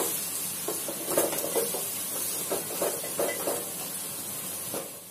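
Onions, tomatoes and ginger-garlic-chilli paste frying in oil in a nonstick pot, stirred with a spatula: irregular scraping and stirring strokes over a steady sizzle, as the masala is sautéed until the tomatoes soften.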